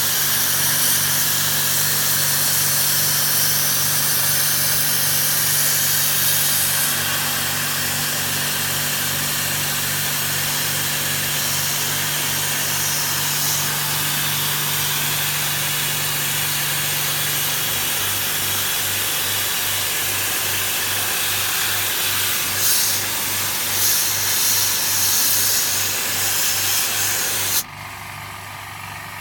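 High-pressure washer spraying water through an air conditioner to strip mould, dust and grease: a steady spray hiss over the pump motor's hum. About two-thirds of the way through, the hum turns into a steady pulse of about three beats a second. Near the end the spray cuts off suddenly.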